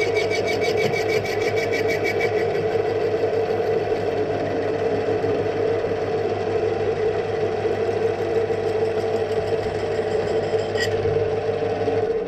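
A small workshop machine tool running steadily while cutting, with a constant motor pitch. It is switched off right at the end and winds down.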